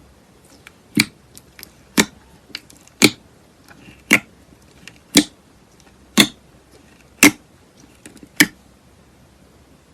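Slime being pressed or poked, giving sharp wet pops about once a second, eight in all, with fainter little clicks between them.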